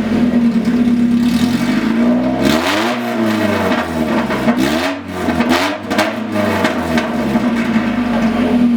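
Mazda NA Miata 1.8-litre four-cylinder idling through a short side-exit pipe welded straight after the catalytic converter, with no muffler. It is revved several times in the middle, the pitch rising and falling, then settles back to idle. Ridiculously loud, echoing in the garage.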